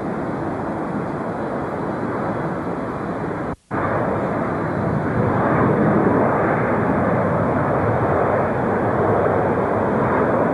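Jet airliner engine noise, a steady rush that cuts out for a moment about a third of the way in and comes back a little louder.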